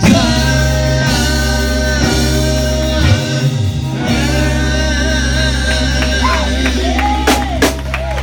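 Gospel band music: long held chords over a steady bass, with guitar and a singing voice, the voice sliding and wavering near the end.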